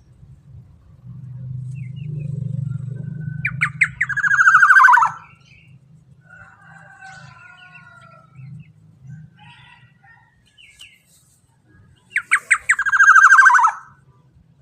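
Black-naped oriole (kepodang emas) giving two loud harsh calls about eight seconds apart. Each call is a quick run of notes that slides down in pitch, with softer chirps in between. A low hum runs under the first few seconds.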